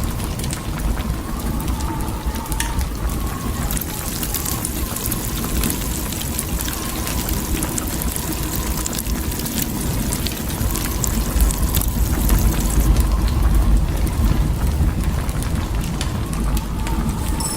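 Steady storm noise: a continuous hiss of wind and precipitation over a low wind rumble, a little louder for a few seconds past the middle.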